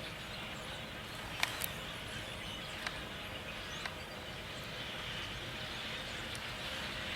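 A large flock of European starlings calling overhead, a steady massed chatter with a few short, sharp calls standing out.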